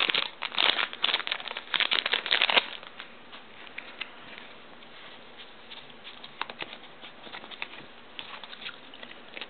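Foil wrapper of a Pokémon trading-card booster pack crinkling and tearing as it is opened, for about the first two and a half seconds, then faint rustles and light ticks of the cards being handled.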